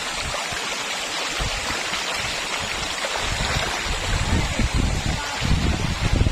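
Steady rushing hiss of a waterfall and its stream, with wind buffeting the microphone in uneven low gusts from about four seconds in.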